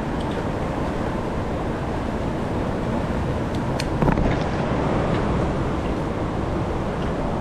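Steady rush of river water with wind on the microphone, and a brief louder burst of splashing about four seconds in.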